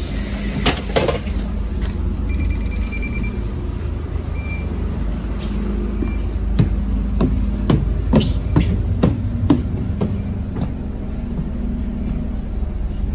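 Scania Omnicity double-decker bus's diesel engine running with a steady low hum. Over it come a few short high beeps and a run of sharp clicks and knocks from the bus interior in the middle.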